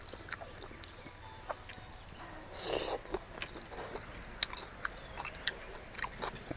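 A person chewing and biting a mouthful of spicy seafood papaya salad with fresh shrimp, with wet crunches and scattered sharp clicks.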